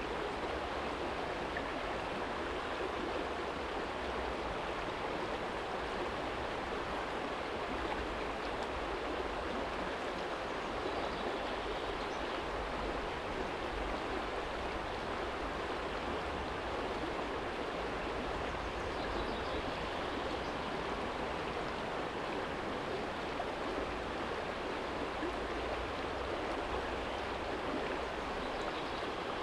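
Small shallow stream flowing over a stony bed, a steady, even rush of water, with a faint low rumble of distant city traffic beneath it.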